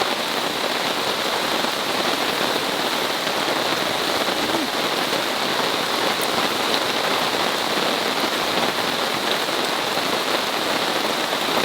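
Heavy rain pouring down steadily onto a camping tarp, an even, unbroken rush.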